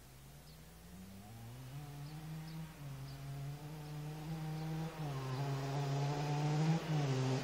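Two-stroke single-cylinder engine of a 1987 Kawasaki KMX 125 running with its original exhaust, approaching and growing steadily louder. Its pitch climbs, then dips a few times, with the last dip near the end.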